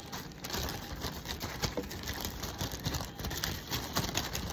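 Irregular light clicks, taps and plastic rustling as beaten egg and seasoning are stirred in a zip-top plastic bag.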